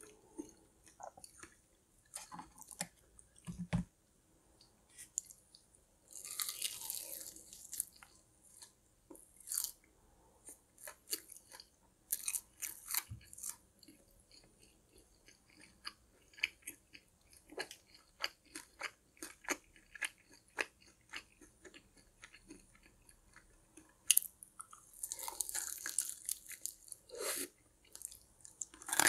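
Close-up eating of sauced chicken wings: chewing with many short wet smacks and clicks of the mouth and teeth. Two longer hissing sounds come about six seconds in and again near the end.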